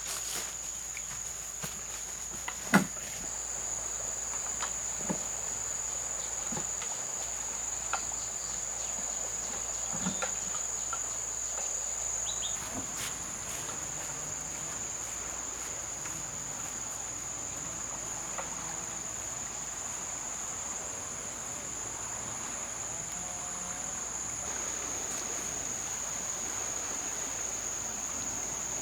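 Insects chirring in one steady, high-pitched drone, with a few scattered knocks, one sharper than the rest about three seconds in.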